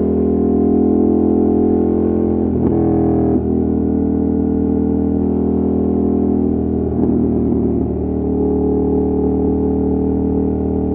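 Ducati Monster 1200's Testastretta L-twin engine and exhaust running under way at a fairly steady engine speed, with a brief break in the note about three seconds in.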